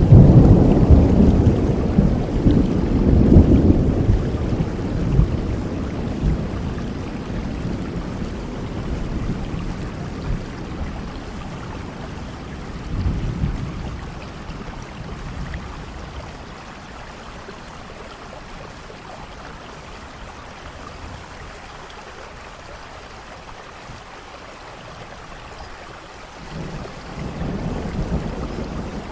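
Steady rain with rolling thunder. A long, loud rumble of thunder at the start dies away slowly over about fifteen seconds, a smaller roll comes about halfway through, and another rumble builds near the end, with the rain hissing steadily throughout.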